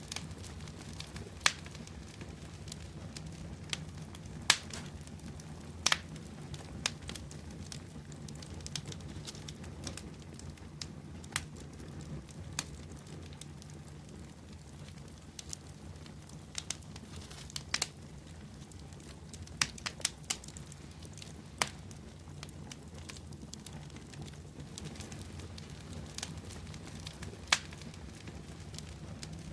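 Wood bonfire burning: a steady low rumble of flames with irregular sharp crackles and pops, a few of them loud.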